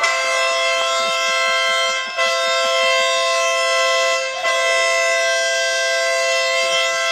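Train-style air horn sounding a steady multi-note chord in long blasts: two blasts of about two seconds each, then a third held on.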